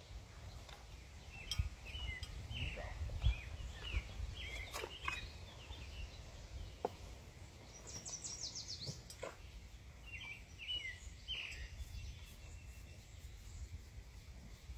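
A small bird chirping in short runs of quick notes, with a faster, higher trill a little past halfway, over a steady low rumble of wind on the microphone and a few sharp clicks.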